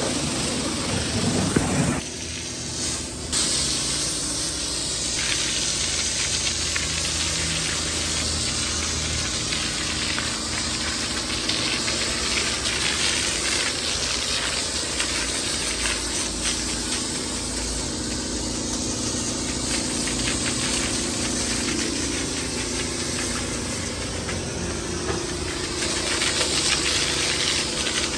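Pressure washer spraying with a steady hiss, its pump motor running underneath; the spray drops off briefly about two seconds in.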